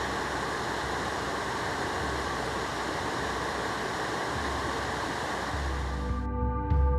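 Steady rush of falling water from a waterfall. About six seconds in the water sound cuts off and soft ambient music with a low bass takes over.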